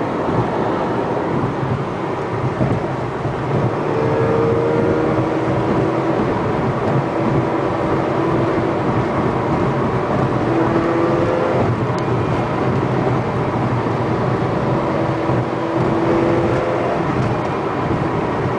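Road and engine noise inside a car's cabin at highway speed: a steady rumble and hiss, with a faint engine drone that comes and goes.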